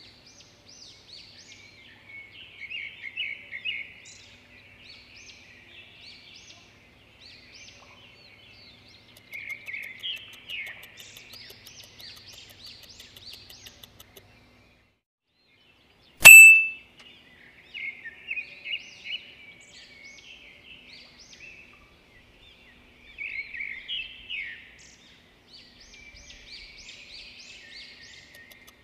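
Birdsong: small birds chirping and trilling in repeated short phrases. About sixteen seconds in, a single short, loud ringing chime.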